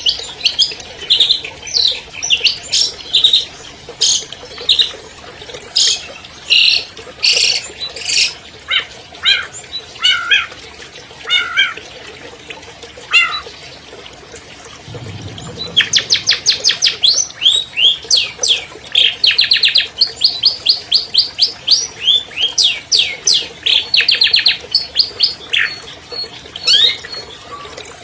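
Long-tailed shrike (cendet) singing a varied song of sharp chirps and quick whistled notes. The song is spaced out at first, then becomes dense rapid runs of notes just past the middle.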